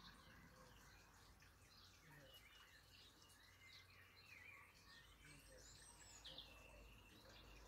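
Faint birdsong: scattered chirps and short whistled glides from small birds over quiet outdoor ambience, with the clearest calls about six seconds in.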